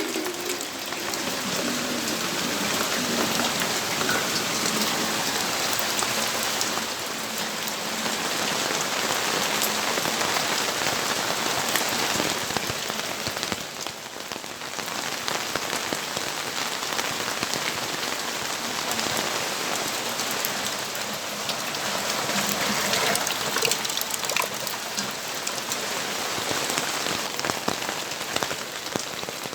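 Steady rainfall: a dense hiss of falling rain with many small drop ticks, dipping briefly in level about halfway through.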